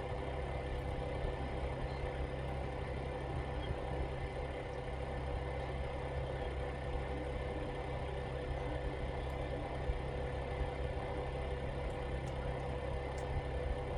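A steady mechanical hum with a deep rumble and a constant tone, unchanging throughout, like a motor or appliance running.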